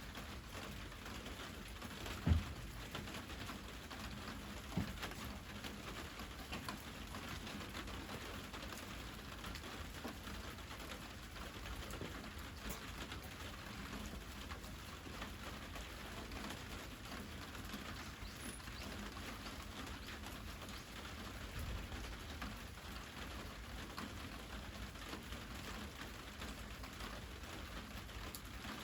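Steady patter of many small crackles and ticks, with a sharp dull knock about two seconds in and a smaller one a couple of seconds later.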